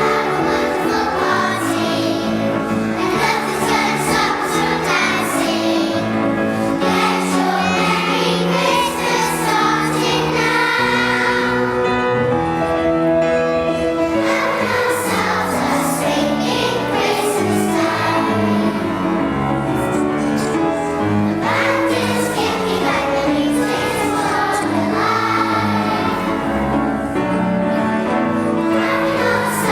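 A choir singing over instrumental accompaniment, steady and unbroken.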